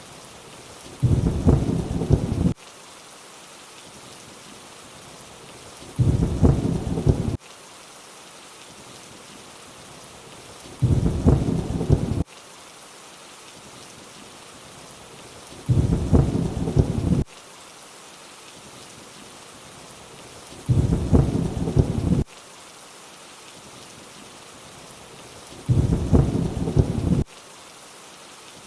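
Steady rainfall hiss with a short burst of thunder-like rumble about every five seconds, six in all. Each burst lasts about a second and a half and starts and stops abruptly, so it repeats like a looped clip.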